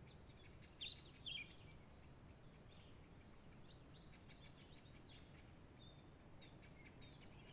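Near-silent woodland ambience with faint, scattered bird chirps, two slightly louder ones about a second in.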